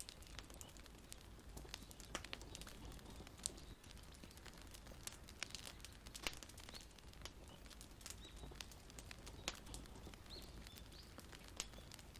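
Wood fire crackling: irregular sharp pops and snaps, a few louder ones, over a low hiss.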